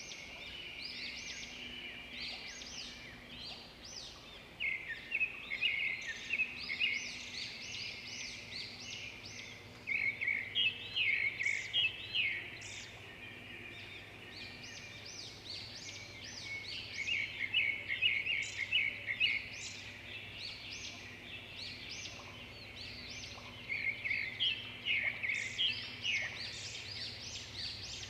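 Songbirds chirping and trilling, a busy run of high, quick notes with louder bursts of fast repeated notes every several seconds.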